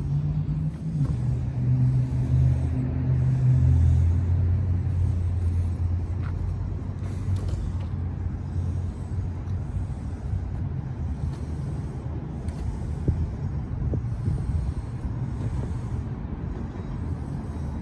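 A motor vehicle's engine running close by: a low steady hum, strongest over the first several seconds and then fading away, over street noise.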